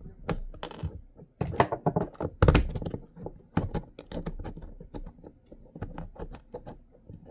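Hard 3D-printed plastic parts of a crossbow magazine's torsion drive clicking and knocking as they are handled, with louder clatters about one and a half and two and a half seconds in.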